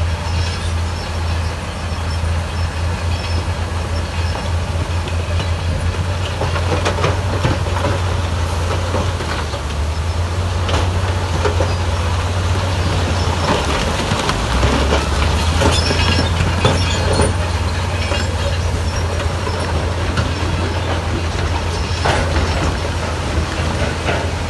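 Heavy diesel earthmoving machinery at work, most likely a Shantui bulldozer: a steady low engine drone with scattered metallic clanks and knocks. The engine note shifts about halfway through.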